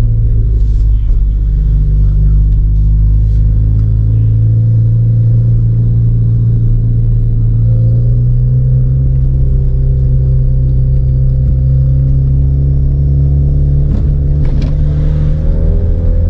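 Turbocharged 1.6-litre four-cylinder engine of a Stage 3 tuned Ford Fiesta ST pulling under load, heard from inside the cabin; its note climbs slowly and steadily in one long pull. A few brief clicks come near the end.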